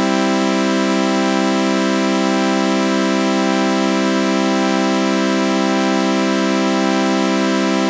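A synthesized sawtooth-wave chord held steady, with a flanger effect giving a slow, gentle sweep to its bright, buzzy, organ-like tone.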